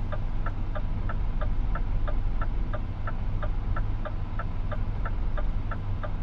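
Turn-signal relay ticking in a Scania truck cab, an even tick-tock about three clicks a second, over the diesel engine's low running hum.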